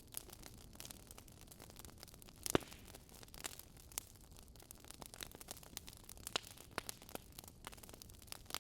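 Wood fire crackling: irregular snaps and pops from burning logs over a soft hiss, with one louder pop about two and a half seconds in.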